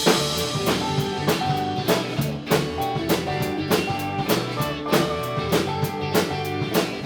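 A live rock band playing an instrumental passage: drum kit keeping a steady beat under electric guitar and bass.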